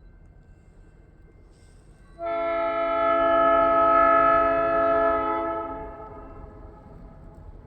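Air horn of a Bessemer & Lake Erie EMD SD38-series diesel locomotive sounding one long, steady chord blast for about three and a half seconds, starting about two seconds in and fading at the end, over a low rumble.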